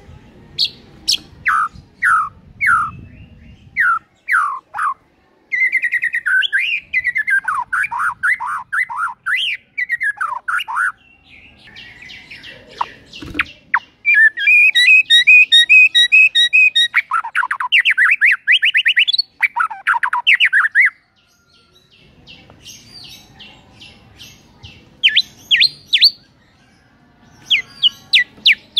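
White-rumped shama (murai batu) singing a varied, loud song: runs of falling whistled notes, fast trills and a dense chattering passage in the middle, broken by short pauses. It is running through its repertoire of learned, mimicked phrases ('bongkar isian').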